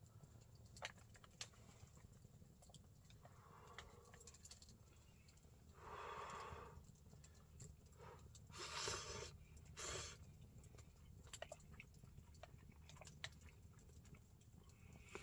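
Faint wood fire crackling: small sharp pops scattered throughout. There are a few short, soft rushes of noise about six, nine and ten seconds in.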